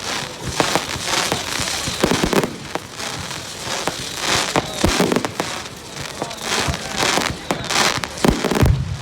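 Fireworks and firecrackers going off in quick succession: repeated sharp bangs and crackling with no pause.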